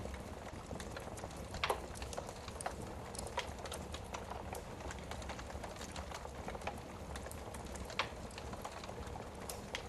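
Wood fire crackling in a fireplace: a steady run of small clicks and pops over a low hiss, with two louder pops, one about one and a half seconds in and one near the end.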